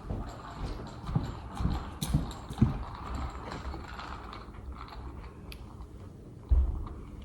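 Irregular dull knocks and thumps: four in the first three seconds and a heavier thump near the end.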